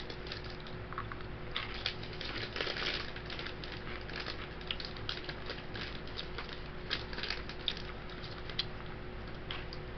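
Crunchy Combos pepperoni pizza cracker snacks being chewed, a string of irregular crisp crunches, over a faint steady hum.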